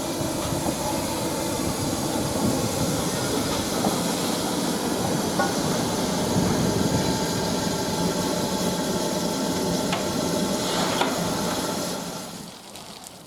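Steam train running on the line, a steady rush of hiss and rail noise that drops away near the end.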